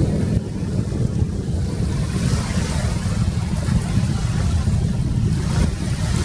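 Wind buffeting the camera's microphone: a steady low rumble with a lighter hiss above it.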